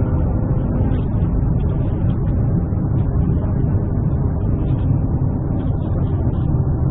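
Steady low rumble of vehicle noise, even and unbroken, with most of its weight deep in the bass.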